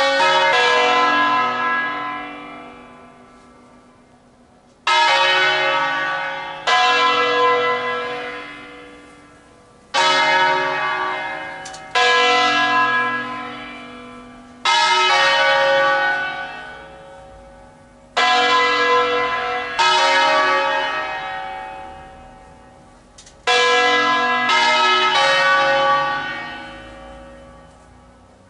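Large church bells from a 1953 Angelo Ottolina ring of nine tuned in B, the three biggest struck one after another in a slow "suonata d'ufficio" toll announcing a Mass for the dead. Each stroke rings out and fades over a few seconds, the strikes coming every two to five seconds, with a quicker cluster near the end.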